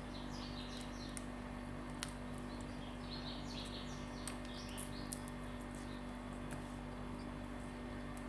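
Faint bird chirps in the background, short high twitters clustered in the first half, over a steady low electrical hum, with a few soft clicks.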